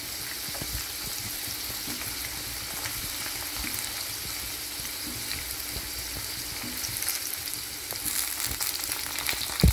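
Whole boiled Indian gooseberries frying in hot sesame oil: a steady sizzling hiss with fine crackles, as water left in the boiled fruit spits in the oil. The crackling grows busier over the last couple of seconds, and one sharp knock comes just before the end.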